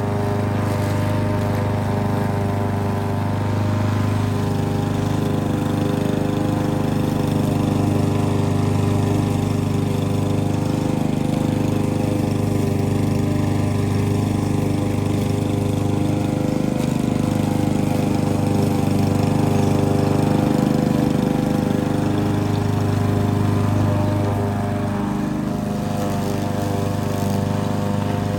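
Lawn mower engine running steadily, then winding down with falling pitch as it shuts off at the very end.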